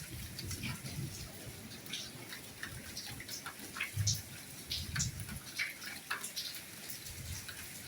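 Soft rain falling: a steady light hiss with individual drops tapping irregularly, and now and then a dull low thud of a heavier drop.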